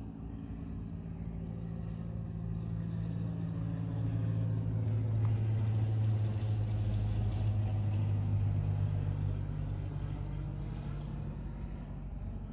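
A motor engine passing by, growing louder to a peak about halfway through and then fading, its hum dropping in pitch as it goes past.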